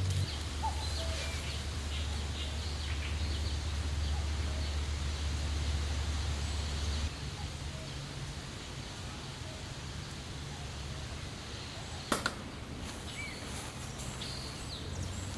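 Outdoor nature ambience with scattered short, high chirping calls from small wild animals. A steady low hum runs underneath and drops away about seven seconds in, and there is a single sharp click about twelve seconds in.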